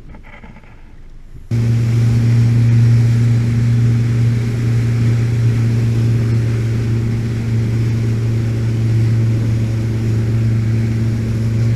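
Small boat's motor running steadily under way, a loud even hum with wind and water hiss over it, cutting in abruptly about a second and a half in.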